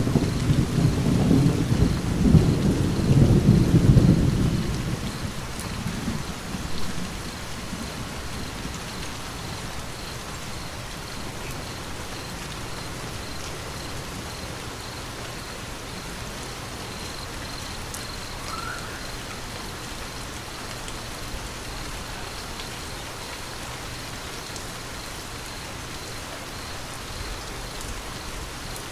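Steady rain with a long, low rumble of thunder at the start that fades away by about six seconds in, leaving the rain alone.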